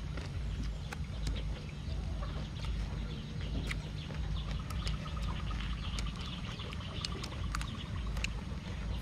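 Close-up eating sounds: crunching and chewing of crispy fried pork and fresh lettuce, with many short sharp clicks, over a steady low rumble.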